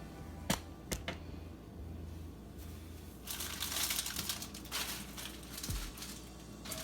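Household items being handled while a refrigerator is cleaned out: a few sharp knocks and clicks about half a second to a second in, then a few seconds of rough rustling noise.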